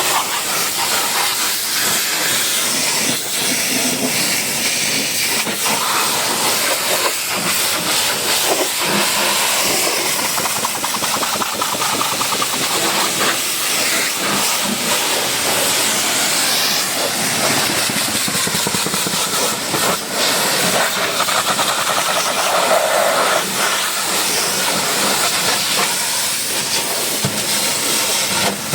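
High-pressure cleaning spray hissing steadily against a car as it is washed, with small swells and dips as the jet moves.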